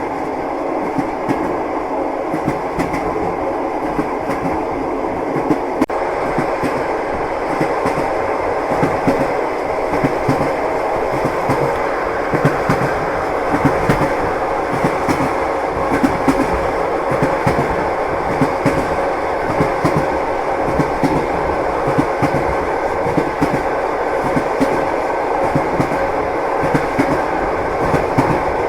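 Passenger train running at speed, wheels clacking over the rail joints over a steady rumble.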